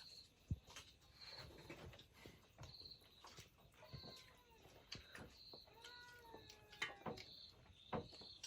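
Faint animal calls, a few times, each rising and falling in pitch, over a short high chirp that repeats about once a second and scattered light clicks.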